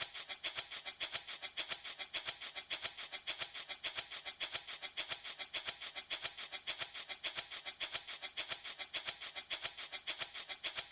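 Handmade baby rattle shaken in a quick, even rhythm of about five bright, dry strokes a second.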